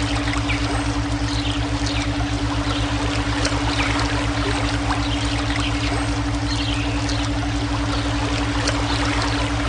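Flowing, trickling water mixed with synthetic brainwave tones: a steady held hum and a low, rapidly pulsing throb underneath. Short high chirps or drips are scattered through it.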